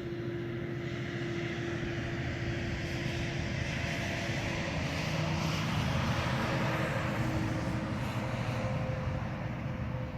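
A moving vehicle's steady engine and road noise, with a low rumble and a humming tone. It grows louder through the middle and eases near the end.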